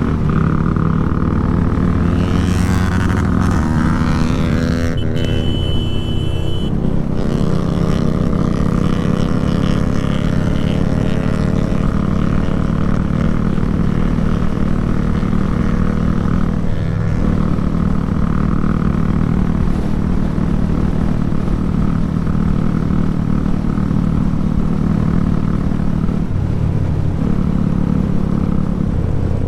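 Motorcycle engine running under way. Its pitch rises a few seconds in as it accelerates, then holds at a steady cruising note.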